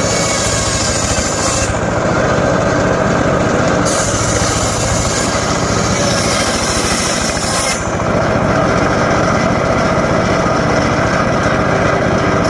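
Homemade circular saw running steadily while cross-cutting short pieces of teak wood. A high hiss from the blade biting the wood stops just under two seconds in, returns about four seconds in and stops again a little before eight seconds, with the machine's low drone carrying on underneath.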